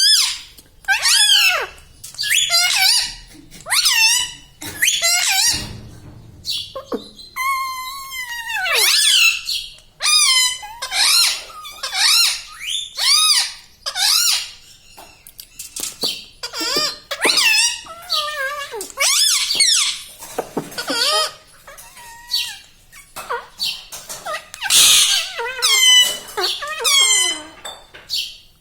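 Pet ringneck parrot giving a string of shrill, high-pitched squawks and calls, about one a second, each sliding up and down in pitch.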